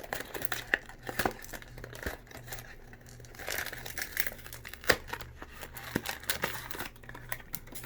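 Foil wrapper of a baseball trading card pack being torn open and crinkled by hand, an irregular run of sharp crackles with a longer rustle about halfway through.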